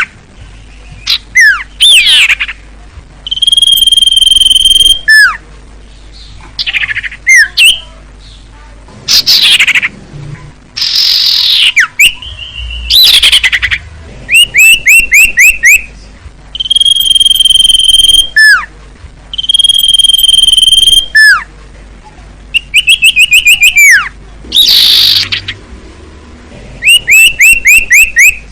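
A songbird singing a varied, repeating song. Long steady whistles, each held a second or more, alternate with quick runs of about eight to ten short down-slurred notes and loud notes that swoop sharply downward, with short gaps between phrases.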